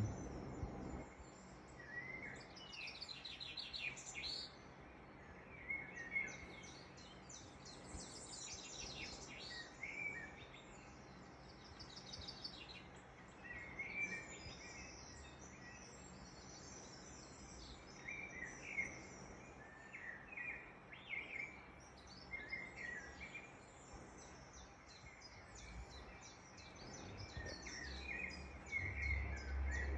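Small birds chirping and trilling in short scattered calls, played from a bird video through a TV speaker, over a faint steady low hum.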